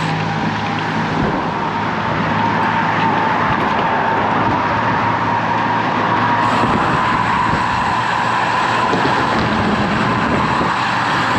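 Steady rush of wind and road noise while riding a road bicycle along a busy highway in strong, gusty wind, with a faint steady hum running through it.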